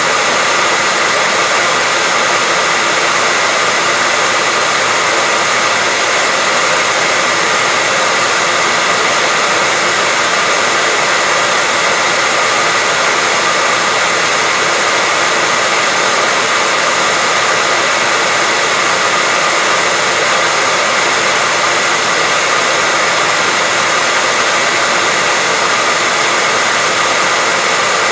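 Hair dryer running steadily: an even blowing noise with a faint steady whine from its motor, used as a continuous sleep sound for a baby.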